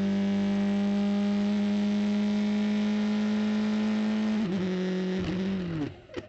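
A vehicle's loud, steady single-pitched tone that holds for a few seconds, then wavers and falls away in pitch before cutting off near the end.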